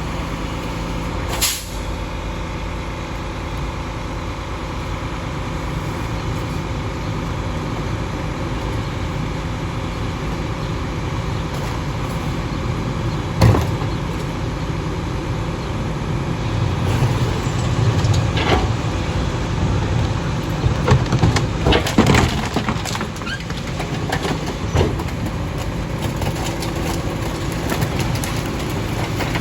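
A split-body garbage truck's engine running steadily, with a short sharp hiss about a second and a half in. A knock comes about halfway through, then a run of bangs and clatters from the truck in the second half.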